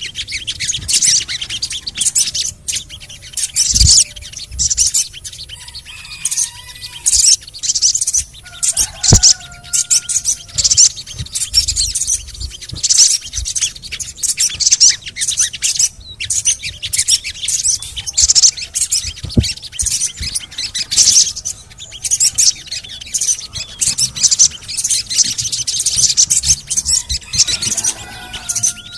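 Sogon bird chattering continuously, with rapid high-pitched chirps and scratchy trills and now and then a short gliding note. This is the sogon's 'cret-cretan' chatter, used as a lure call to set other sogons singing.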